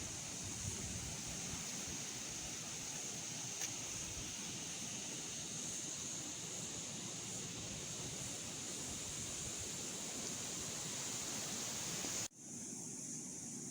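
Steady outdoor noise, like surf or wind, with a constant high-pitched hiss over it. It cuts off abruptly about twelve seconds in, then carries on with the high hiss much weaker.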